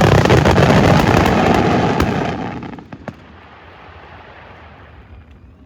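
Aerial fireworks going off in a dense barrage of crackles and booms, dying away about two and a half seconds in, with one last pop shortly after.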